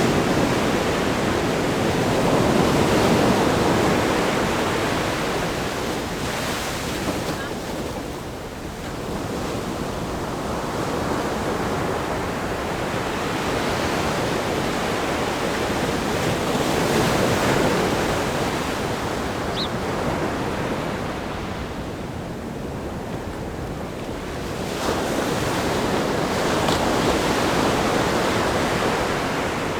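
Ocean surf breaking against a rock groin: a continuous wash of noise that swells with each set of waves. The surges come near the start, just past halfway and near the end, with quieter lulls between.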